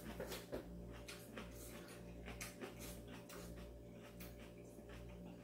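Faint chewing of a mouthful of ramen noodles: soft, irregular wet mouth clicks, over a steady low hum.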